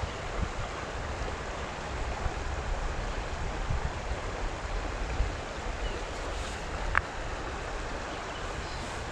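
Steady rush of flowing creek water, with wind buffeting the microphone in low gusts. A single short click about seven seconds in.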